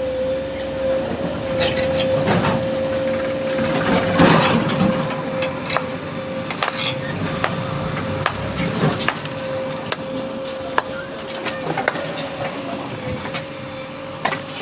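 JCB backhoe loader running with a steady hum while material is loaded, with scattered knocks and clatter and two louder crashes, about two and four seconds in.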